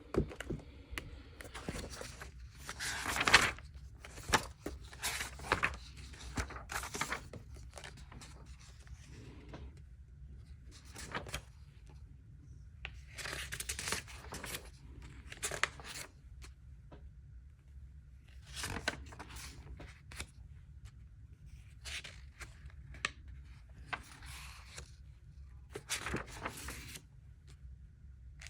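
Paper rustling in short, irregular bursts as notebook and handout pages are handled and turned.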